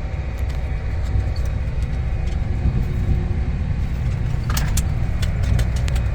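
John Deere tractor engine running steadily, a low rumble heard from inside the cab, with a few light clicks and rattles late on.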